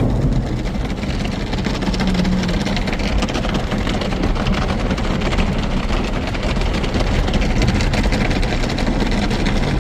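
Automatic car wash running over a truck: a steady, loud rushing noise of machinery and water.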